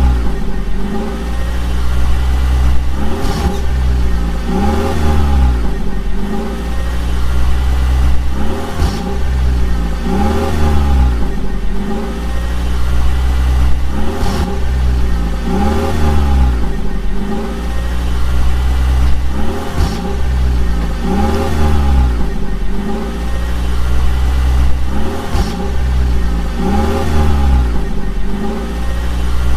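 Vehicle engine sound with a steady deep rumble, its pitch rising and falling in a pattern that repeats about every two seconds.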